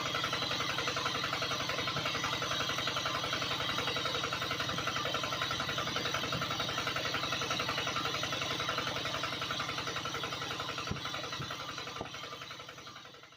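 A small motor running steadily with a fast, even pulsing, then fading out near the end.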